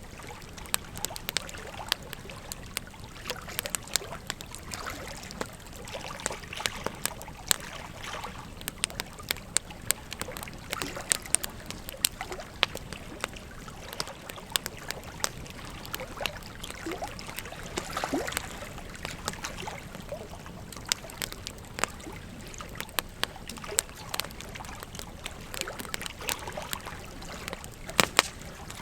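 Wood fire crackling, with frequent sharp pops and snaps, over the steady rush of a flowing river. Two of the loudest pops come near the end.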